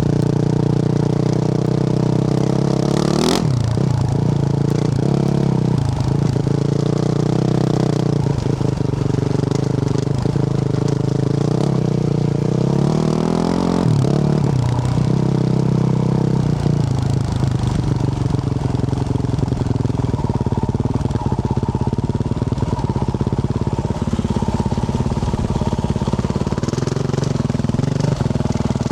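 Single-cylinder four-stroke engine of a Yamaha YZ450F dirt bike with a Yoshimura RS-12 exhaust, running under way, its revs rising and falling as it is ridden. A sharp knock sounds about three seconds in.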